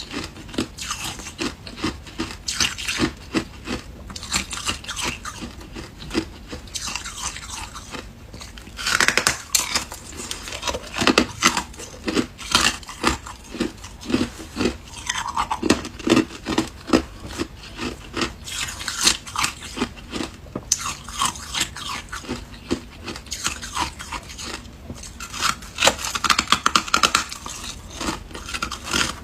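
Ice being bitten and chewed: a dense run of sharp crunches and cracks, several a second, with louder clusters of bites scattered through.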